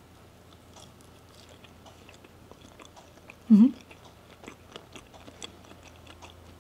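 Close-miked chewing of soft durian flesh: faint wet mouth clicks and smacks. About three and a half seconds in comes a short, loud hummed "mmm" of appreciation.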